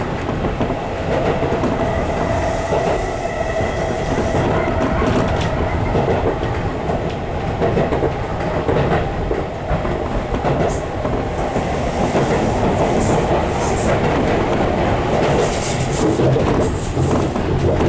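Tobu Skytree Line electric commuter train running, heard from inside the car: a steady rumble of wheels on rail with rhythmic clicking over the track, and a faint whine in the first few seconds.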